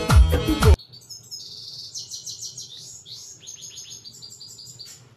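A Pashto song with music ends abruptly under a second in. Then a goldfinch sings: a quick, high twittering run of chirps and short trills.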